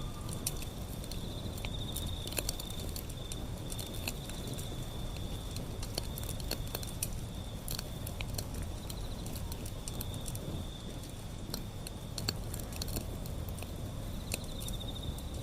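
Wood fire burning, with irregular sharp crackles and pops over a low steady rumble of the flames. A thin high-pitched tone holds steady throughout.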